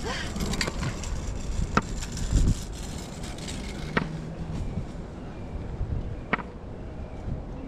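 Walking along a paved trail heard through a body-worn action camera: low rumbling wind and handling noise, with sharp clicks at regular intervals about two seconds apart.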